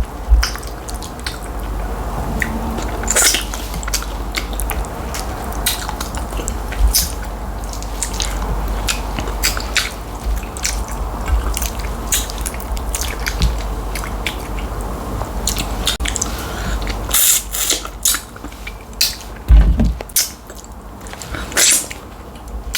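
A person eating tilapia fish in light soup with starch: chewing, with many irregular sharp mouth clicks over a steady low hum.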